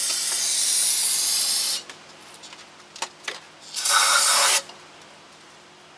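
Aerosol can of brake cleaner spraying in two bursts: a long hiss of about two seconds, then a short one about four seconds in, with a few faint clicks between.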